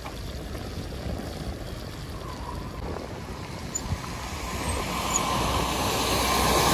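Wind rushing over the microphone while riding a bicycle, with road noise from the wet road, growing louder over the last few seconds.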